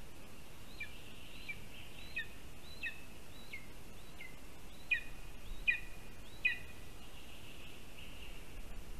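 A bird calling: a series of about nine short notes, each falling in pitch, roughly one every 0.7 seconds, the last three loudest, over a steady faint hiss.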